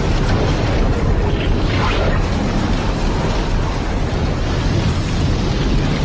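Rushing floodwater: a loud, steady, deep rumbling rush that never breaks.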